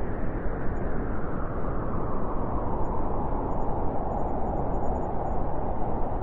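Wind blowing, a continuous rushing noise that swells a little and grows brighter through the second half.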